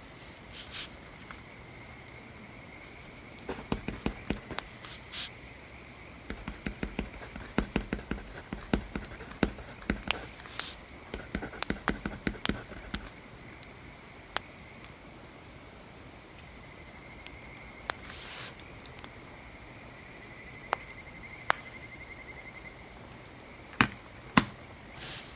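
Wood fire crackling, with sharp irregular pops and snaps that come in a dense cluster for several seconds, then thin out to a few louder pops near the end. A faint steady high-pitched trill runs underneath.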